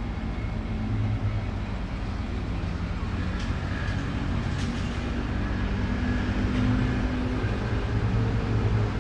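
Vehicle running on the road, a steady low engine and road rumble with a couple of light ticks midway.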